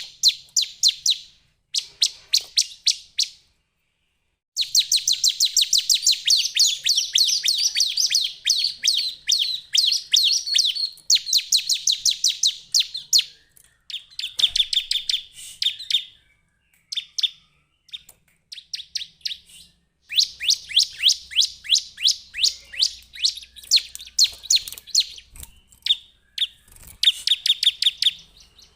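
Bar-winged prinia (Prinia familiaris) calling: rapid runs of sharp, high-pitched chip notes repeated several times a second, in bursts of a few seconds with short pauses between.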